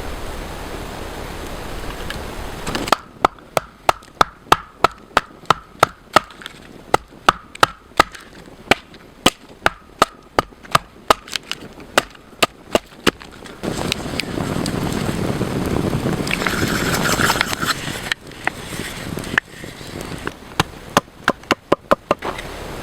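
A blade chopping on wood in a steady rhythm, sharp knocks about two to three a second. The run of strikes breaks off for a few seconds of steady hiss before a second, shorter run.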